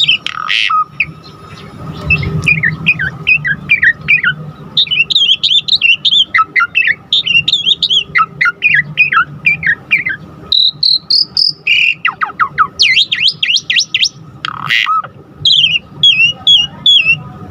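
Asian pied starling (jalak suren) singing a fast, varied song of chattering, squeaky whistles and chirps, one quick phrase after another, with a couple of short pauses. Its full-repertoire song, energetic and unbroken, is the lively singing bird-keepers call gacor.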